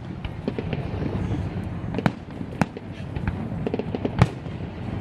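Fireworks display: a rapid string of sharp bangs and crackles over a steady low rumble, with the loudest bang about four seconds in.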